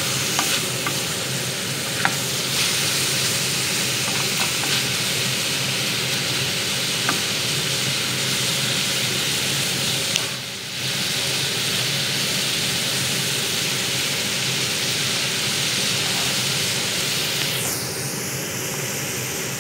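Sliced mushrooms and vegetables, capsicum among them, sizzling steadily as they stir-fry in a hot pot, with a few clicks of a wooden spatula against the pot in the first several seconds.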